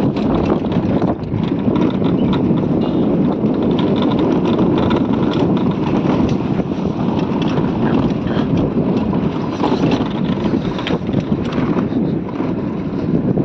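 Steady rumble and wind buffeting of a motorcycle ride on a rough, unpaved mountain road, with scattered knocks and rattles from the bumps.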